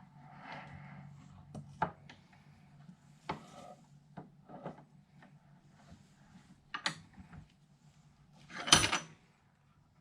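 Metal clicks and knocks of a universal joint cross and bearing cap being handled and fitted into a drive shaft yoke, with a short scraping slide near the end, the loudest sound.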